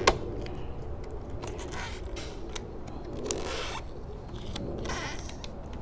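Vinyl wrap being peeled off a Can-Am Ryker's body panel: a sharp click just after the start, then several short rasping, tape-like ripping pulls.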